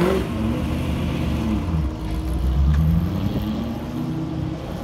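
TVR Griffith's 4.7-litre Ford V8 pulling away, its pitch rising and falling as the throttle is blipped, loudest a little past halfway, then dropping back as the car drives off.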